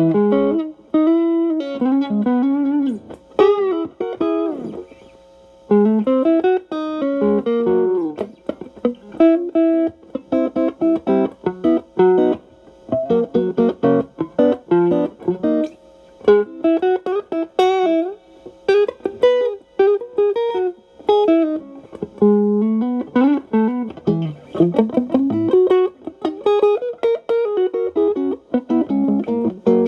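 Stratocaster electric guitar through a Xotic AC Plus overdrive pedal into a Marshall Valvestate amp, playing an improvised single-note blues lead with string bends and short pauses. The overdrive is cleaned up by rolling back the guitar's volume, giving a lighter drive.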